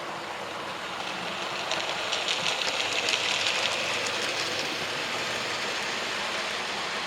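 OO gauge model train running on the layout's track, with a rapid clicking of wheels over the rail joints as it passes close by about two seconds in, then a steady running noise.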